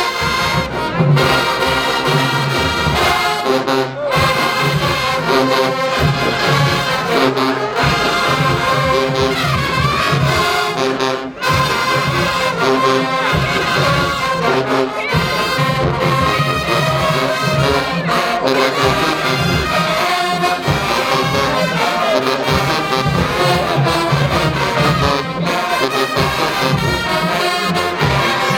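Marching band brass section playing loudly, trombones and trumpets over a heavy low rhythmic pulse from the drums and sousaphones.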